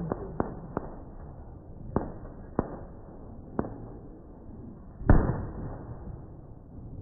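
Fireworks going off: several scattered sharp cracks, then one loud bang about five seconds in that trails off over a second or so.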